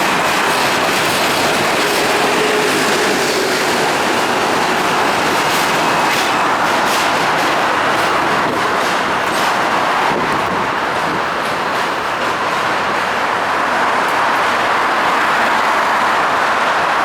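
R160 subway train running along the track: a steady loud rumble and hiss of wheels on rail, with scattered clicks as the wheels pass over rail joints.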